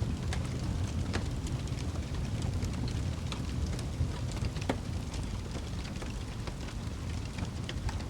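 Wood fire burning in a fireplace: a steady low rumble of the flames with irregular sharp crackles and pops, a louder pop about a second in and another just before five seconds.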